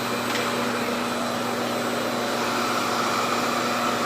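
RevAir reverse-air hair dryer running, a steady rush of suction airflow with a constant low motor hum as it pulls a section of hair into its wand to dry.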